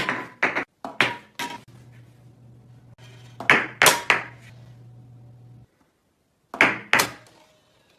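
A game disc repeatedly clacking against a Nintendo Wii console: about nine sharp knocks in loose groups, the disc striking hard plastic as it is aimed at the disc slot.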